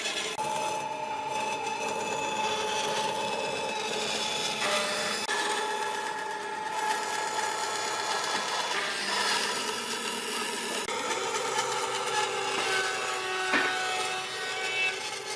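An electric power tool running steadily against wood or epoxy: a motor hum under a rough rubbing, scraping noise. The hum shifts pitch a few times as the load on the tool changes.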